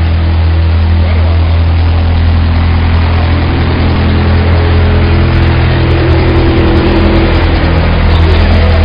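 Wood chipper running steadily and loud, with sharp clicks appearing over its drone from about five seconds in.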